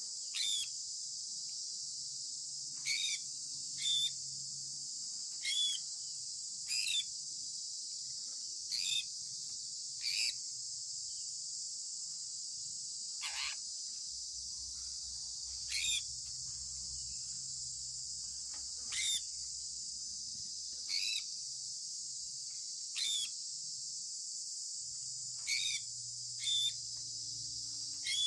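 Sun conure parrot giving short, sharp chirps about every one to two seconds, sometimes two in quick succession, over a steady high-pitched hiss.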